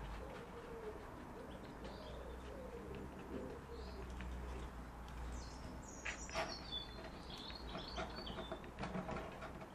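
A pigeon cooing faintly in low, curving calls for the first few seconds, then a small bird chirping in short high notes from about five to eight seconds in. A few soft clicks sound here and there.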